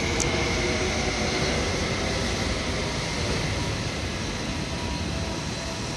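Seibu 2000 series electric train running, heard from inside the passenger car: a steady rumble of wheels and running gear with a faint high whine, easing slightly in level towards the end.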